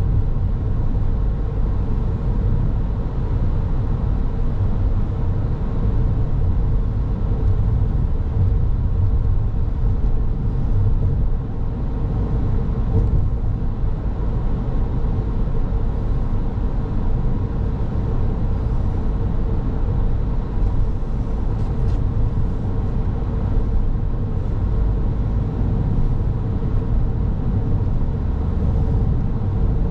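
Car driving along a road: a steady low rumble of tyres and engine, with a faint constant hum.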